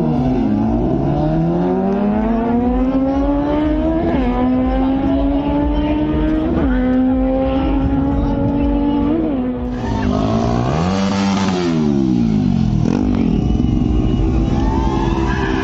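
Superbike engine running hard at high revs, its pitch climbing and then holding, with brief breaks a few times as it changes gear. Near the middle it drops off, then revs up and falls away again before settling to a steady note.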